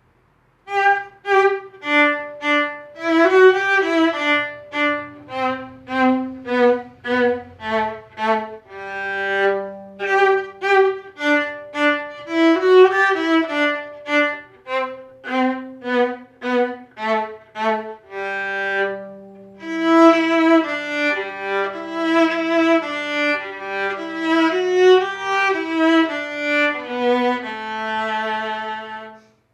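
A viola played solo with the bow: a melody of short separate notes with a few longer low notes held in between. The playing begins about half a second in and stops just before the end.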